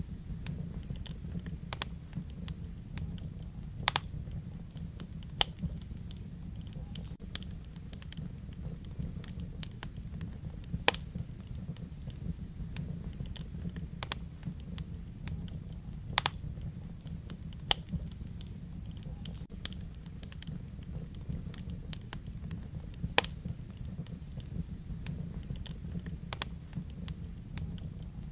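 Wood fire burning in a fireplace: a steady low rumble of the flames with irregular crackles and sharp pops, a dozen or so louder snaps scattered through.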